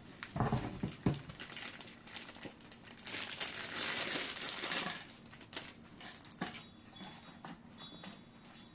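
Computer-part packaging being handled: a few dull knocks near the start, then about two seconds of rustling, crinkling packaging, followed by scattered light clicks and taps.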